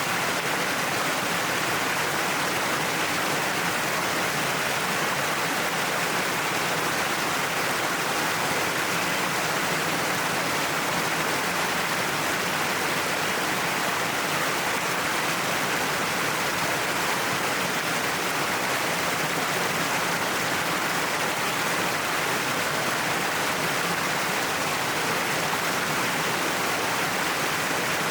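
Waterfall pouring down a cliff face: an even, unbroken rush of falling water.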